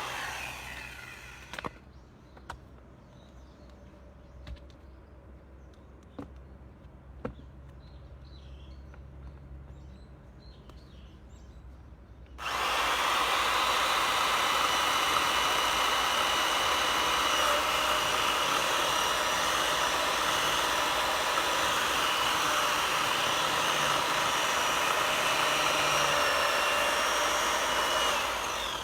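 A few sharp knocks and faint high chirps over a quiet background. About halfway through, a motorized power tool cuts in abruptly and runs at a steady pitch until just before the end.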